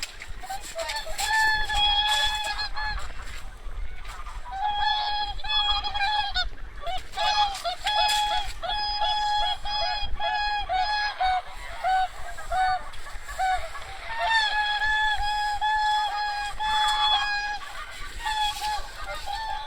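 A flock of large wild waterfowl calling: many short, steady-pitched honking calls overlapping one after another, with a few brief gaps.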